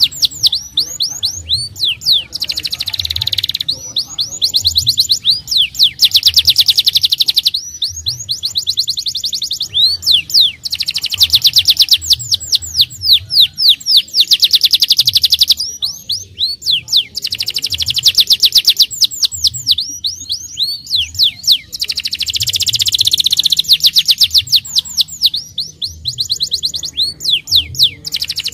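Domestic canary in full song: long rolling trills of rapid repeated high notes, broken by brief pauses between phrases every few seconds.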